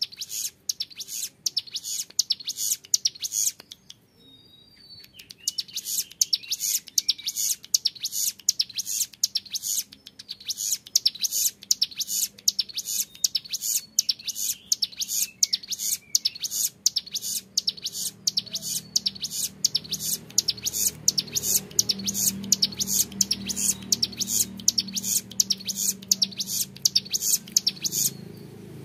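Young male ciblek gunung (a prinia) singing its long 'ngebren' song: rapid, evenly repeated high, clear notes, broken by a short pause about four seconds in. A low hum rises underneath in the second half.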